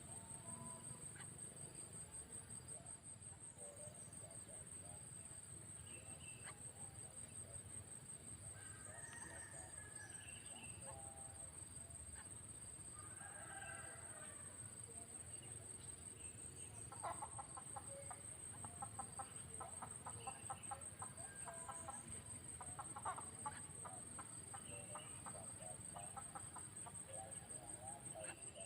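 Bird calls in short clucking runs, sparse at first and busier from a little past halfway, over a steady high-pitched insect drone.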